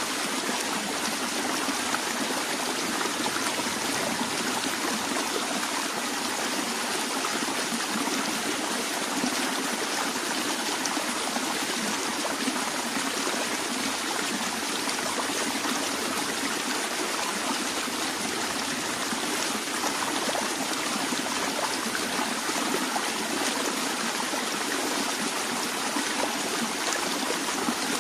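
Stream of water flowing steadily over rocks, an even rushing with a little trickling.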